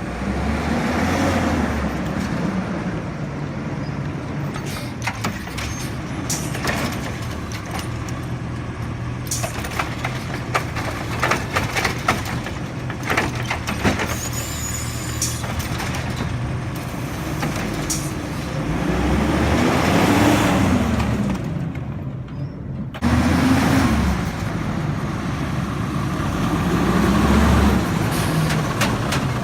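Garbage truck engine running, speeding up and dropping back several times as it works, with a run of clanks and knocks in the middle from the collection work.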